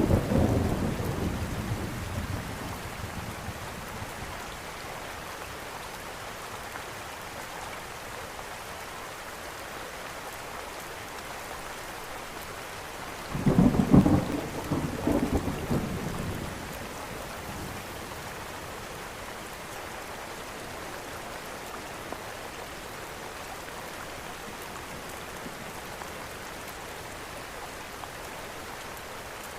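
Steady rain hissing, with two rolls of thunder: one right at the start that dies away over a few seconds, and a louder one about halfway through lasting about three seconds.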